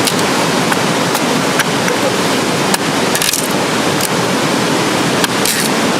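Waterfall: a steady rush of falling water, with a few light clicks.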